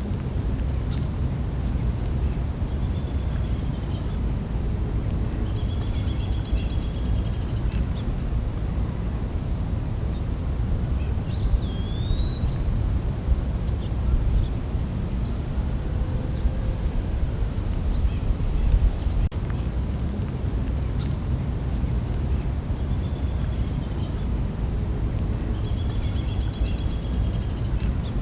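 Night forest insect chorus: a steady high-pitched insect drone with trains of quick, evenly repeated cricket chirps, a few brief bird calls now and then, over a low steady rumble.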